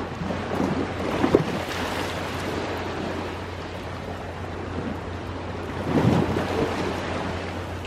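Ocean waves washing onto the shore, a steady rush with two louder surges, one about a second in and one about six seconds in.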